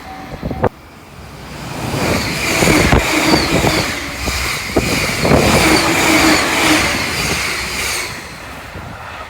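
A Joban Line train passing at high speed, over 120 km/h. The sound swells to its loudest in the middle, with a steady high whine and a few sharp wheel clicks over the rail joints, then fades toward the end. The earlier sound cuts off abruptly under a second in.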